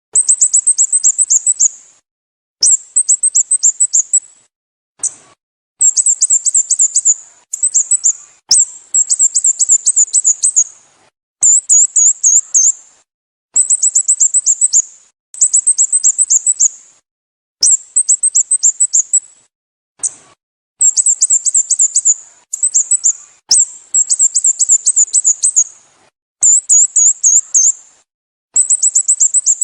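Sooty-headed bulbul calling: bursts of quick, high chirps, each about one and a half to two seconds long, repeated over and over with short silent gaps between.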